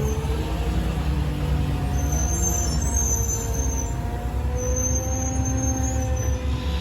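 A large diesel engine running steadily with a low, even rumble, and a thin high whine that comes and goes above it.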